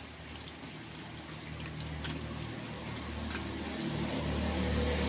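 Rain falling, with scattered drops ticking, while the low hum of a motor vehicle's engine builds and grows louder over the last few seconds.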